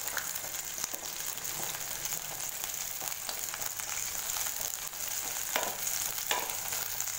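Shallots and garlic cloves sizzling in oil in an aluminium pan, a steady hiss, with a wooden spatula stirring and knocking against the pan a couple of times near the end.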